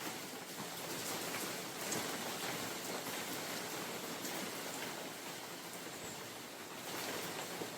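Steady spring rain falling through a forest, with a continuous hiss and many small drop ticks on leaves.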